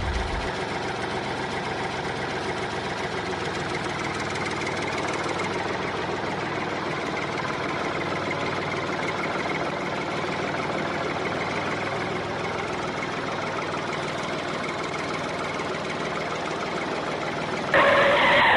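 Tractor engine running steadily at idle. A brief, louder and brighter sound joins it near the end.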